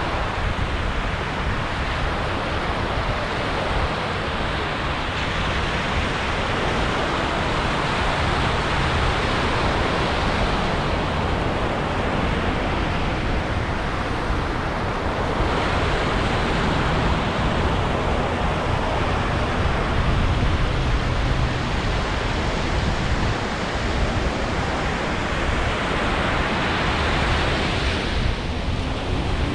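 Ocean surf breaking and washing up a beach: a steady rush of noise that swells and eases gently.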